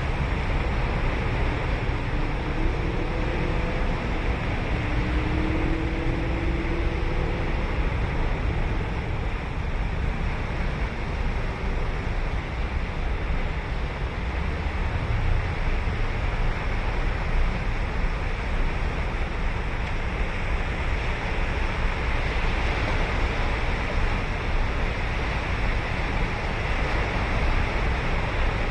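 Ocean surf breaking and washing continuously onto a sandy beach, a dense steady rush of water with a deep low rumble, with some wind buffeting the microphone. A faint low hum can be heard for a few seconds near the start.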